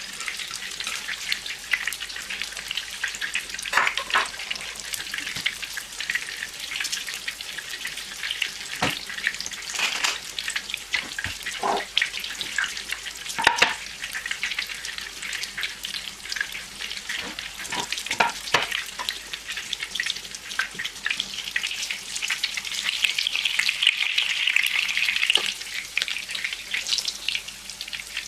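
Breaded pork cutlet (tonkatsu) shallow-frying in hot oil in a pan: a steady sizzle with scattered sharp pops and crackles. The sizzle grows louder for a few seconds about three-quarters of the way through.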